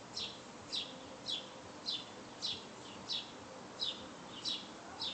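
A bird chirping over and over: short high chirps about one every 0.6 seconds, each sliding down in pitch.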